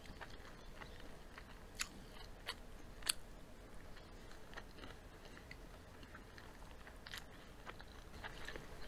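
Chewing and biting of fried chicken, with scattered small crunches and mouth clicks; the loudest crunch comes about three seconds in.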